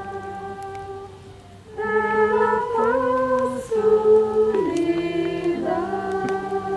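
A group of voices singing slow, long-held notes that change pitch in steps. It thins out about a second in and comes back stronger near two seconds.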